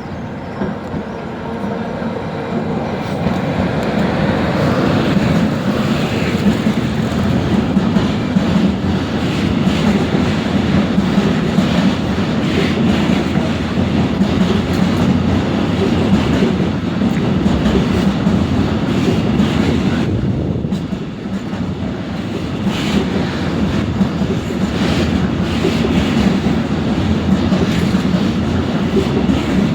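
A train running past on the track, its wheels clicking and clattering over rail joints; it builds up over the first few seconds, then goes on loud and steady with a short dip about two-thirds of the way through.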